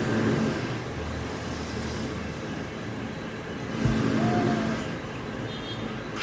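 Steady mechanical noise of an engine or heavy machine running, swelling louder at the start and again about four seconds in.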